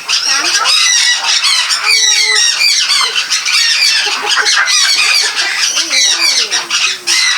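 A flock of lovebirds chattering, with many shrill chirps and squawks overlapping without pause.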